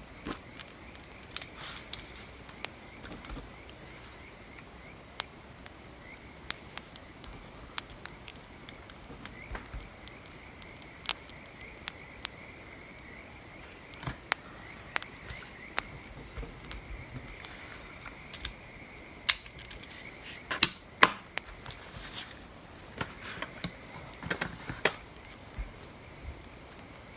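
Wood fire crackling: irregular sharp pops and snaps over a low steady hiss, with a busier run of louder pops a little past two-thirds of the way through.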